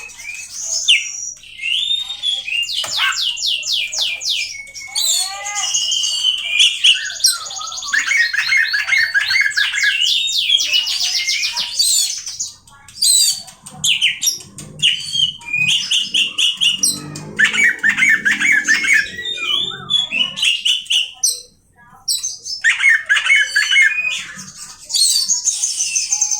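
Oriental magpie-robin (kacer) singing a long, varied song of fast trills of repeated notes, gliding whistles and short harsh calls, pausing briefly twice.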